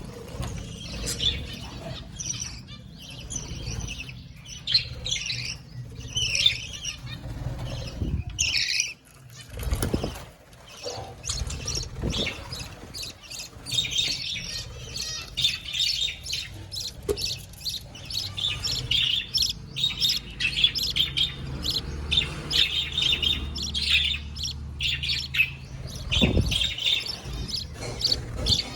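Caged budgerigars chirping and chattering continuously in quick, high calls, with a few bursts of wing flapping.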